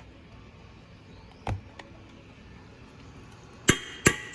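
Spoon tapped against the rim of a pot to knock off a scoop of butter: a single knock about a second and a half in, then two sharp, ringing taps near the end that begin a quick series.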